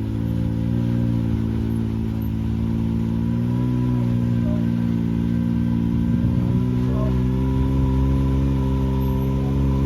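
Can-Am Maverick X3 Max's three-cylinder turbocharged Rotax engine running at low, fairly steady revs, with small rises and dips in pitch.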